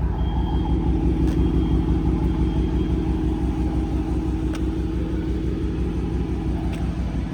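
2020 Dodge Charger R/T's 5.7-litre Hemi V8 idling steadily.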